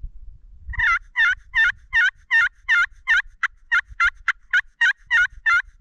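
Turkey call sounding a long run of hen yelps, about three a second, loud and evenly spaced, starting about a second in; a locating series meant to strike a gobbler into answering.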